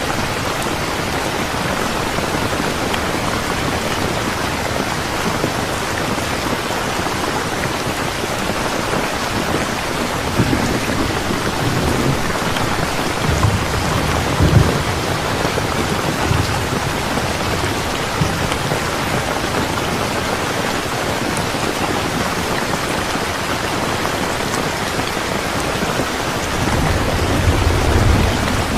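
Steady rain falling, with low rolls of thunder about a third of the way in and again near the end.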